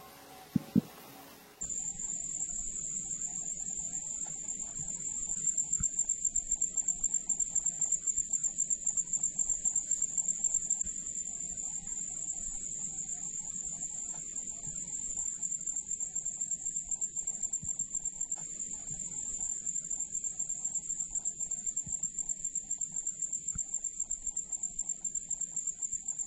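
An insect calling on one steady high pitch in a fast, even pulse, starting abruptly about two seconds in and going on without a break. Before it, music ends with two sharp clicks.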